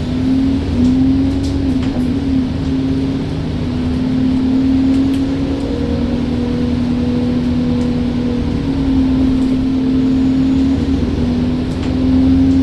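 Diesel engine of an Alexander Dennis Enviro bus running steadily, a low rumble with a constant drone that neither rises nor falls.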